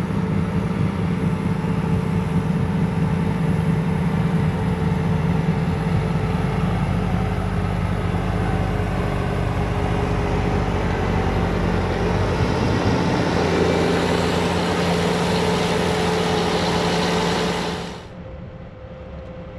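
Bobcat T66 track loader's diesel engine and snowblower attachment running under load, a loud steady drone with a low hum. About eighteen seconds in it drops sharply to a quieter, muffled engine hum.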